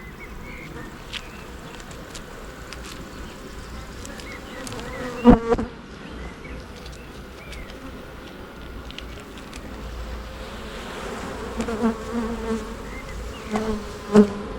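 Honey bees humming around an open hive during a frame-by-frame inspection. A single sharp knock about five seconds in is the loudest sound, with a few smaller knocks near the end.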